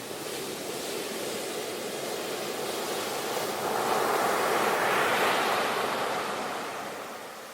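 Ocean waves washing on a shore: a steady hiss of surf that swells to its loudest a little past the middle as a wave rolls in, then ebbs away near the end.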